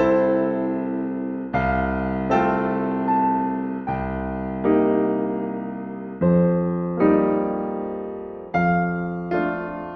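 Slow, gentle solo piano music: a chord or note struck roughly every second, each ringing and fading before the next.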